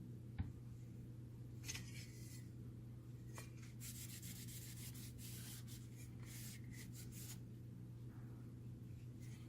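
Parts being rubbed and scraped by hand in short bouts, with a single knock about half a second in, over a steady low hum.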